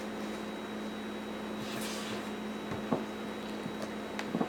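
Steady electrical hum over room noise, with a brief soft hiss about two seconds in and a couple of faint clicks near the end.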